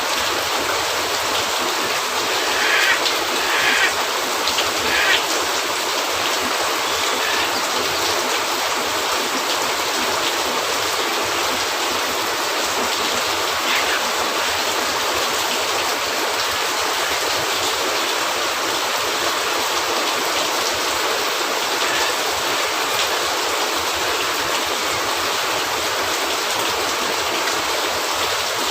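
Steady rain falling on a cabin roof, an even hiss, with a fireplace crackling under it: a cluster of short pops a few seconds in and a couple more later.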